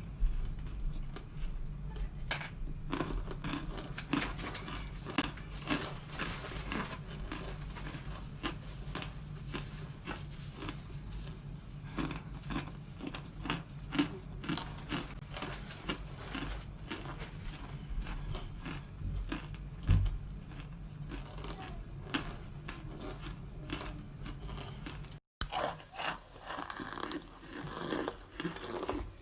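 Cornstarch chunks being bitten and chewed: a long run of dry, brittle crunches and crackles, with a brief break near the end.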